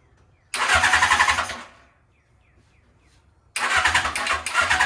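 1978 Suzuki GS750's inline-four being cranked by its electric starter, on jumper cables, trying to fire after sitting for weeks: a crank of about a second, a pause, then a second crank starting near the end that keeps going.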